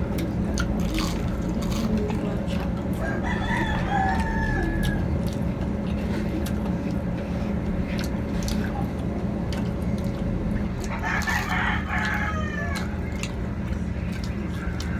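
Rooster crowing twice: a shorter call about three seconds in and a louder, longer one about eleven seconds in, over a steady low hum and scattered light clicks.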